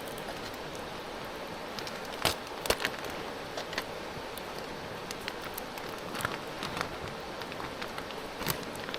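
Campfire crackling: a steady hiss with scattered sharp pops, the loudest a couple of seconds in.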